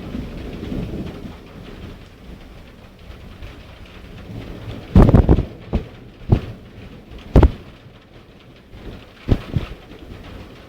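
Heavy thunderstorm rain falling steadily, with a low thunder rumble in the first couple of seconds. In the second half come about six sharp, loud knocks close by.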